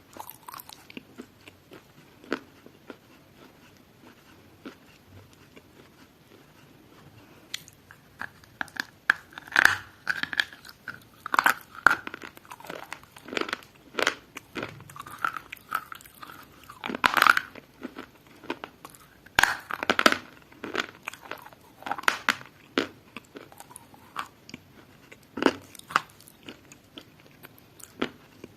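A person biting and chewing crunchy food close to the microphone: irregular sharp crunches, sparse and soft for the first several seconds, then frequent and louder from about eight seconds in.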